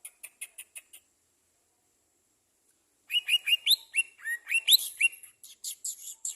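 A songbird chirping: a quick run of about seven short chirps at the start, then, after a pause of about two seconds, a rapid, varied song of chirps and rising whistled notes.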